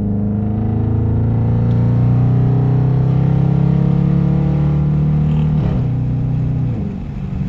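Dodge Hemi V8 running through a mid-muffler delete, with Dynomax mini race bullet mufflers in place of the resonators: a steady deep exhaust note whose pitch climbs slowly, with a brief falling sweep and a short dip in level near the end.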